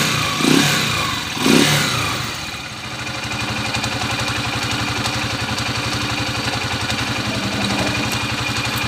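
Honda TMX155 single-cylinder motorcycle engine given two short revs, then settling into a steady idle. The mechanic calls it rough-running; it is a worn engine that smokes and burns oil.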